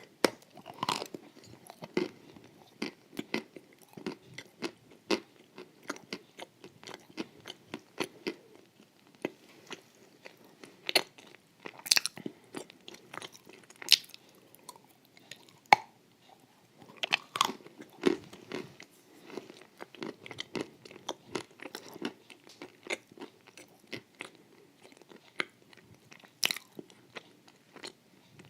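A person eating a creamy, crunchy halva and sour-cream cake close to the microphone: chewing and biting with irregular crunches and wet mouth clicks.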